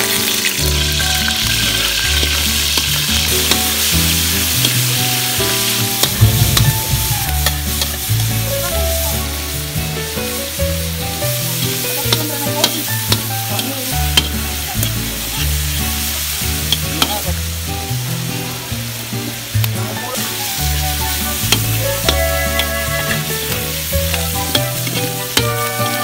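Sliced meat sizzling in hot oil in a wok, the hiss loudest in the first few seconds, with frequent clicks and scrapes of a metal spatula against the pan as it is stirred. Background music plays underneath.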